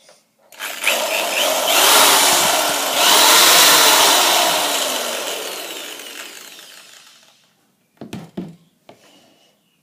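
Electric drill running loudly, then winding down with a falling whine as it coasts to a stop, followed by a few short knocks.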